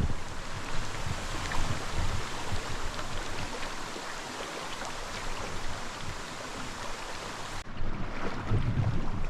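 Wind buffeting the microphone in irregular low gusts over the steady hiss of water rushing past a sailing canoe's hull in strong wind. About three-quarters of the way through, the high hiss drops away abruptly.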